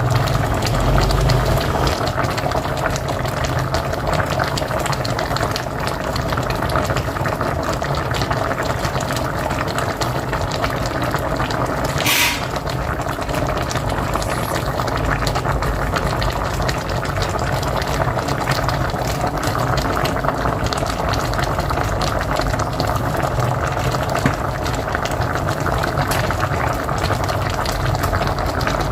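A pot of mocotó (cow's-foot stew) bubbling at a steady boil on a wood-burning stove. There is one brief, sharper hiss about twelve seconds in.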